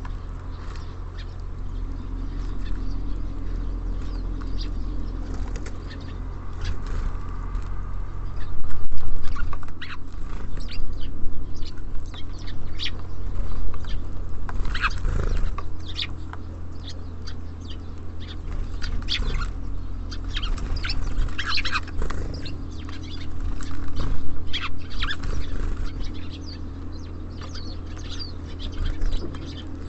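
Small songbirds at a bird feeder: repeated wing flutters and sharp pecking and landing clicks, with a few short high chirps, busiest in the middle and loudest about nine seconds in. A steady low hum runs underneath.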